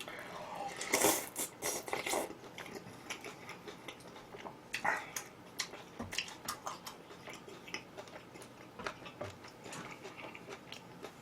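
A person eating close to the microphone: crisp, crackling bites and chewing of fried chicken, loudest in the first two seconds, with another sharp crunch about five seconds in and softer chewing between.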